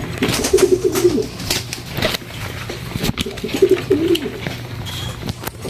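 Pigeons cooing: two bouts of low, warbling coos, each about a second long, the first at the start and the second a little past halfway, with scattered light clicks between them.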